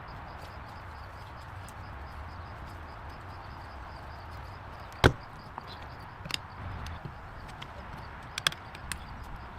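One sharp knock about five seconds in, followed by a few lighter clicks, over a steady low background rumble.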